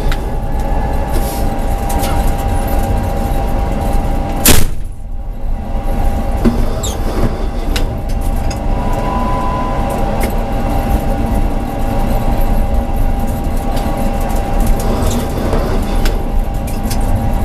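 Tram running along the track, heard from the driver's cab: a steady rumble of wheels on rails with a thin steady tone running through it. One short, sharp, very loud bang comes about four and a half seconds in.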